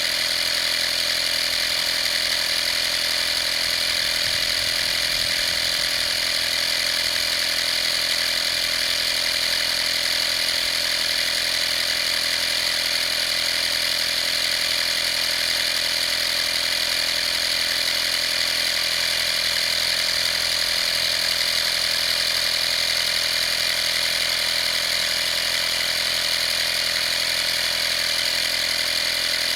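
Vaper 12V portable air compressor running steadily, its small motor and pump making a constant high-pitched whine.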